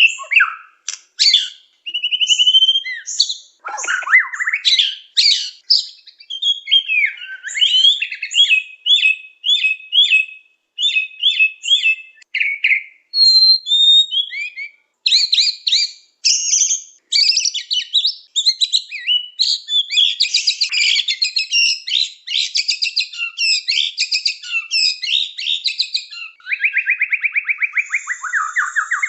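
White-rumped shama (murai batu) singing a long, varied song of clear whistled phrases, chattering runs and trills. Near the end it breaks into a rapid run of evenly repeated notes.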